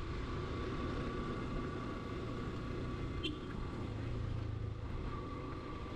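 Motorcycle running along a road, its engine and the wind making a steady low rumble on the microphone. A single brief click about three seconds in.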